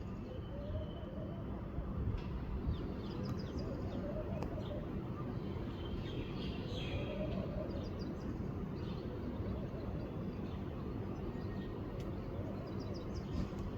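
Small birds chirping in short bursts over a steady low rumble.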